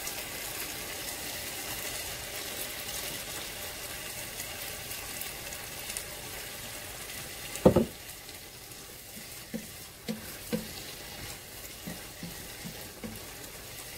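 Chopped tomatoes sizzling in oil in a pot while being stirred with a wooden spoon. There is a single sharp knock about eight seconds in, then a few lighter taps of the spoon against the pot.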